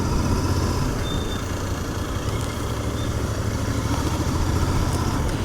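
Royal Enfield Continental GT 650's parallel-twin engine running through its stock exhaust at a steady note, with no revving.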